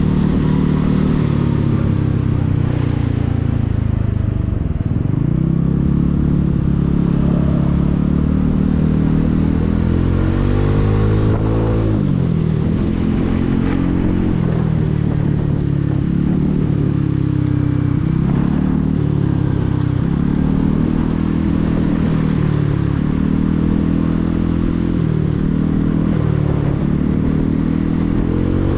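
Motorcycle engine pulling through the gears in city traffic: its pitch climbs and then drops at each gear change, with a long climb ending in a sharp drop about halfway through, a run of shorter rises and falls after it, and another climb near the end.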